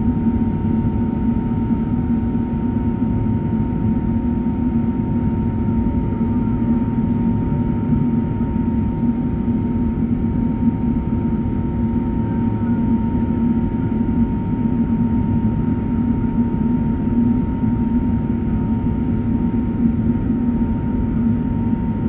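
Steady jet-engine and airflow drone heard inside the cabin of an Airbus A380 in flight shortly after takeoff, with a low hum and a thin, steady whine running through it.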